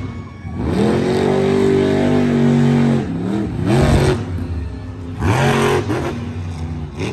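Monster truck engine revving: held high for about two seconds, then dropping and revved up twice more in shorter bursts.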